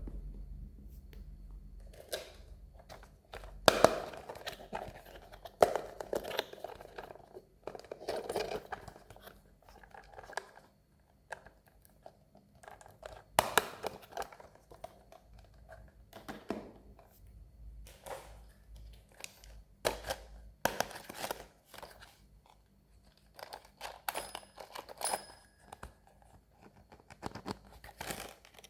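Toy packaging being handled and torn open: irregular crinkling, tearing and sharp clicks, with short pauses between.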